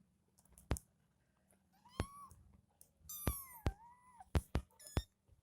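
Kitten mewing: several short, high-pitched mews, some sliding down and some rising, with a few sharp clicks between them.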